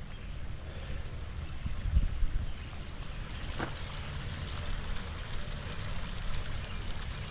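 Spring-fed stream water running steadily, with an uneven low rumble underneath and a single sharp click about three and a half seconds in.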